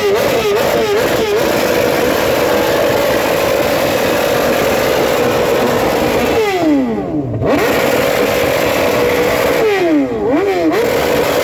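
Superbike engine revved hard: a few quick throttle blips at first, then held at high revs for several seconds. The revs drop away and climb back twice, with more quick blips near the end.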